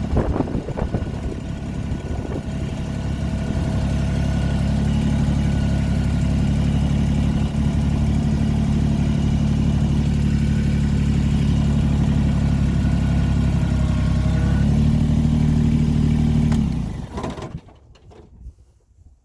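Tractor engine running under way, a steady low drone that rises in pitch near the end and then cuts off suddenly.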